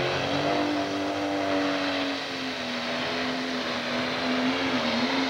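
An engine running at a steady speed, its pitch wavering slightly, over a broad rushing noise.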